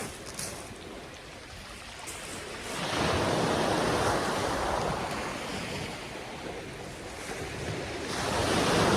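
Sea waves washing up the beach, surging about three seconds in and again near the end, with some wind on the microphone.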